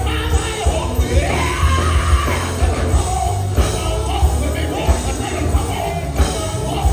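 Live gospel music: a lead singer's voice over a full band with heavy bass and a steady drum beat.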